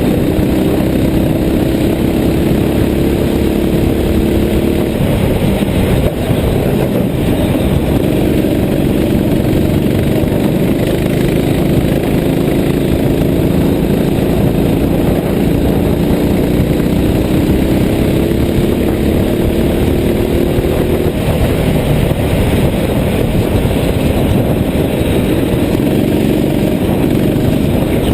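Go-kart engine running under load, its pitch climbing slowly over several seconds and then dropping back, twice, over a steady rush of noise.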